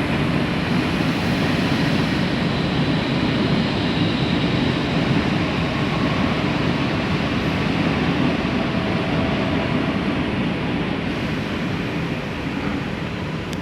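Steady rumble of a commuter train running on the rails, heard from inside the carriage, easing slightly near the end.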